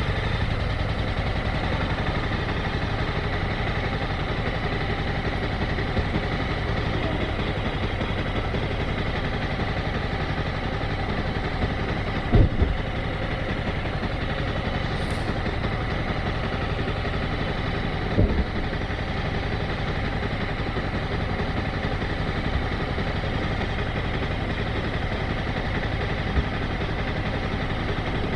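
Motorcycle engine idling steadily, with two brief thumps partway through, about six seconds apart.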